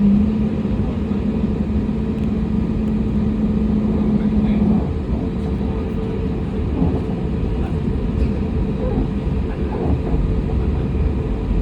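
Cabin noise inside a jet airliner: a loud, steady low rumble from the engines and airframe, with a steady hum that drops away about five seconds in.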